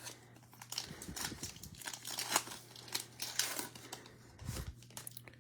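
Cellophane wrapper of a Prizm basketball card cello pack crinkling and tearing as it is opened: a run of faint, irregular crackles.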